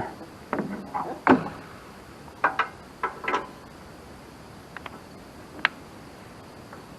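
Scattered clicks and clinks of hand tools and small metal parts such as screws being handled while panels are taken off a sawmill, with a sharp single click a little past the middle.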